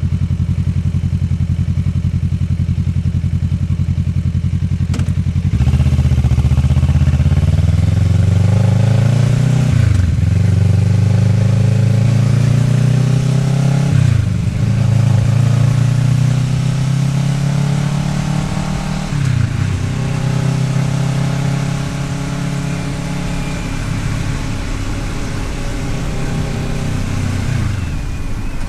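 Kawasaki Ninja 650R's parallel-twin engine ticking over steadily, then pulling away about five seconds in and accelerating up through the gears. The engine note climbs and drops sharply at each of three upshifts, then falls away near the end as the throttle closes.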